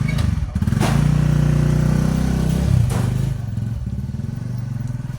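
Small motorcycle engine running close by, rising in pitch about a second in and easing back down about three seconds in.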